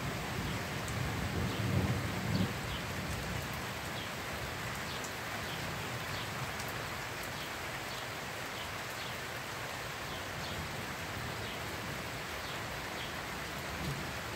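Steady rain falling, with single drops ticking nearby, and a low rumble of thunder about two seconds in.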